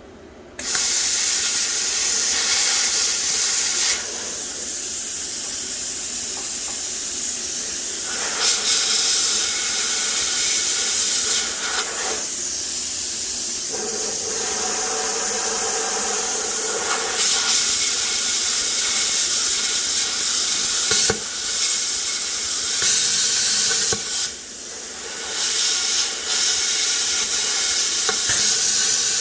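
Air plasma cutter cutting through a stock steel oil pan: a loud, steady hiss with a faint whine under it. It starts suddenly about half a second in and dips briefly a few times as the torch pauses or moves.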